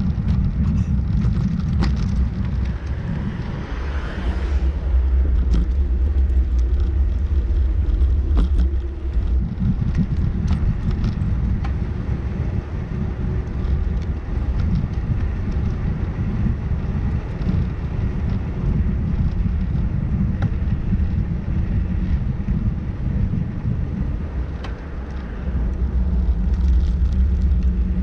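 Wind and road rumble on the microphone of a camera riding on a moving bicycle: a steady low rumble with scattered small clicks and a brief hiss about four seconds in.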